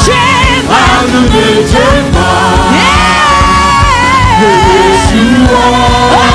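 Live gospel worship music: a band with drums and sustained keyboard chords under singers holding long, wavering vocal lines.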